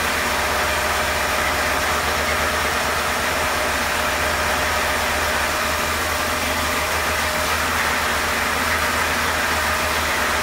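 Chevrolet 350 H.O. small-block V8 running at a steady speed on its first start-up after installation.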